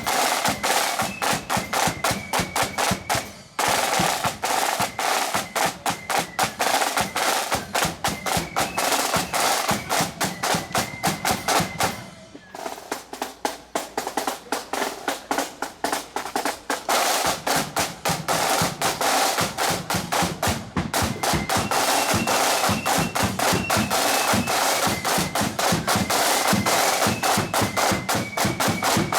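Parade marching band playing: snare drums rattling in rapid rolls and beats over a bass drum, with a high melody faintly above the drums. The band pauses briefly twice, a few seconds in and near the middle.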